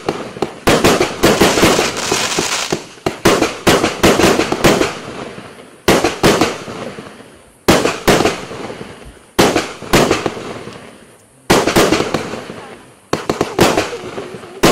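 Bloody Mary TXB815 aerial fireworks firing: sharp bangs in quick clusters every second or two, each trailing off into a fading crackle.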